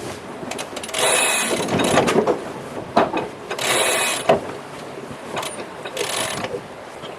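Ratcheting mechanical clicking in three bursts: a long one about a second in, a shorter one around four seconds, and a brief one near six seconds.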